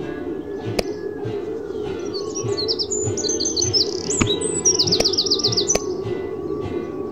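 Birds chirping, with a quick trill of about eight notes a second in the middle, over a steady low background sound. A few sharp clicks are scattered through it.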